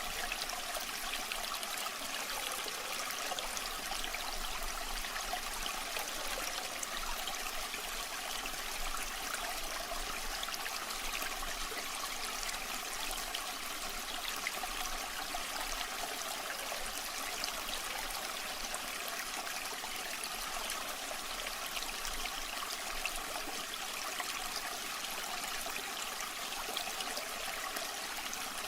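Waterfall water rushing steadily: an even, continuous hiss of falling water with little deep rumble.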